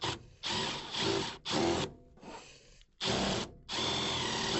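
Five short scraping bursts as a stripped screw is worked loose from a Carrier furnace's collector box while the box is pried on.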